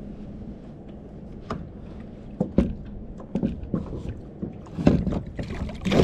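Splashes and knocks at the side of a kayak as a hooked ladyfish is reeled in, over steady wind and water noise. The knocks start about two and a half seconds in and come thicker near the end.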